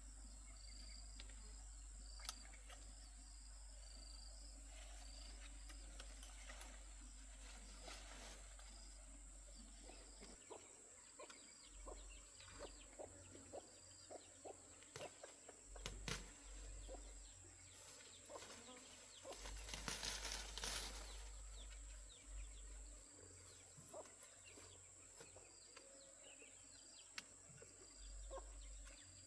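Faint outdoor ambience: a steady high whine under short, evenly repeated chirps, with scattered light clicks and knocks in the second half and a brief louder rustle about twenty seconds in.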